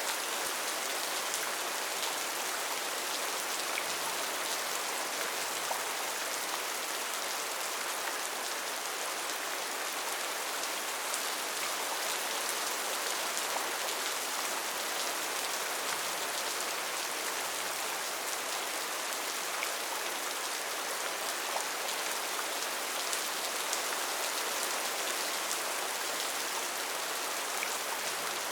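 Steady rain falling on foliage in a rainforest, a dense even hiss of many small drops with faint pattering.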